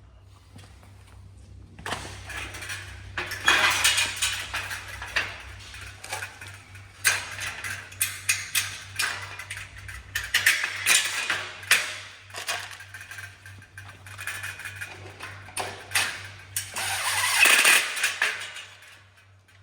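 Metal greenhouse frame parts and brackets clattering and clinking as they are handled and fitted together, in irregular bursts of knocks and rattles. A steady low hum runs underneath.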